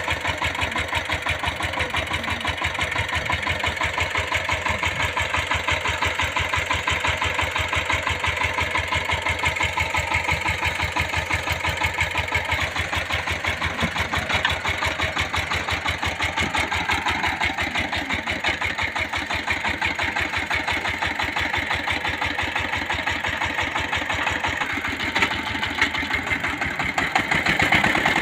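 Engine running steadily with a fast, even chugging beat; it gets louder near the end.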